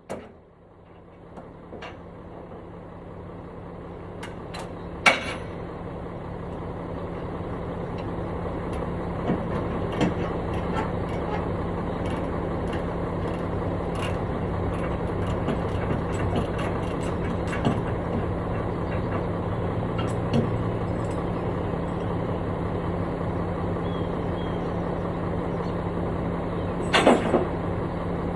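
Construction machine's engine running, growing louder over the first several seconds and then holding steady with a constant low hum. A sharp knock comes about five seconds in and a few more near the end.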